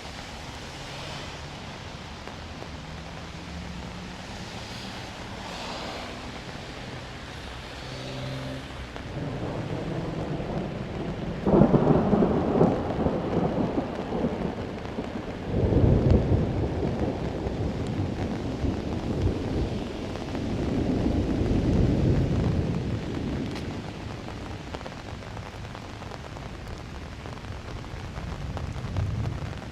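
Thunderstorm: steady rain with a sudden loud thunderclap about twelve seconds in and a second a few seconds later, then low thunder rolling on and dying away, leaving the rain.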